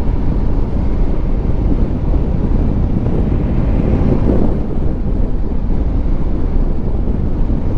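Wind rushing over the microphone with the steady low drone of a Honda Africa Twin Adventure Sports' parallel-twin engine and road noise while riding.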